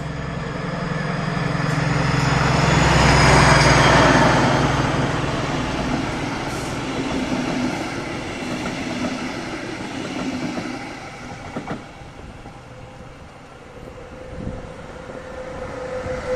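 DB class 218 diesel-hydraulic locomotive passing with a heavy engine drone, loudest about four seconds in. Then the rumble and wheel clatter of its double-deck coaches, which dies away. Near the end a second train, a SBB Cargo electric locomotive hauling freight wagons, approaches with a steady whine.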